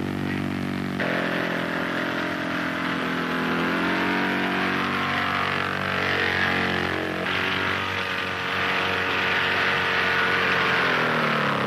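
Engine of a 1930s experimental light plane running steadily as it takes off, its pitch shifting a few seconds in; the sound changes abruptly about a second in and again around seven seconds.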